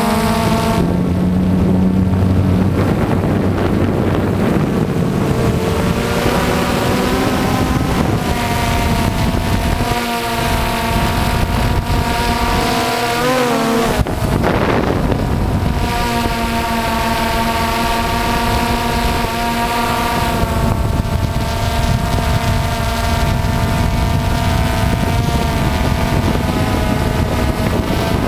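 DJI Phantom FC40 quadcopter's brushless motors and propellers buzzing in flight, heard from the camera on board. Several steady tones shift together as the throttle changes, with a brief rise and fall about halfway through, over a hiss of wind on the microphone.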